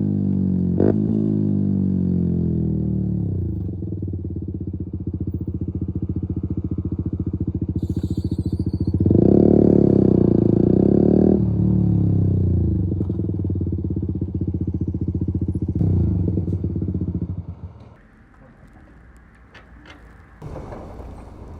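Keeway RKF 125 single-cylinder engine through a Mivv exhaust with the dB-killer removed, slowing, then opening up louder for a couple of seconds and easing off again. The engine sound drops away about eighteen seconds in, leaving a few faint clatters.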